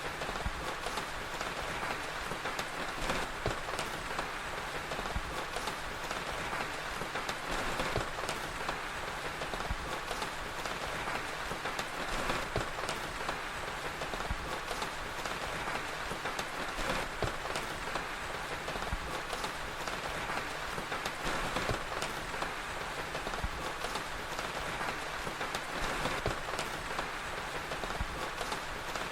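Steady rain falling, with many small sharp crackles and pops of a wood fire scattered irregularly through it.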